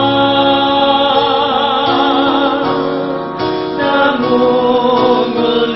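Worship song sung by a solo voice over instrumental accompaniment, with a long held note sung with vibrato near the middle.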